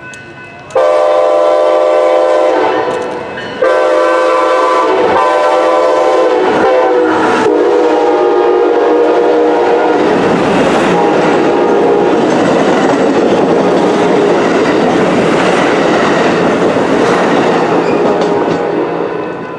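Multi-tone air horn of Coaster commuter train CDTX 2112 sounding a series of long blasts, the last one drawn out. Then the train runs by close and loud, with the rumble and clatter of its wheels on the rails.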